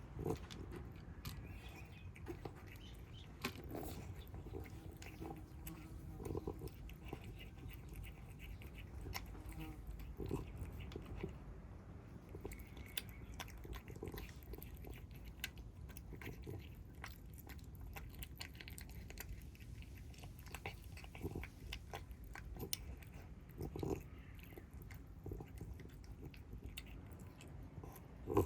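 Kittens chewing their food: a run of small, irregular crunching clicks.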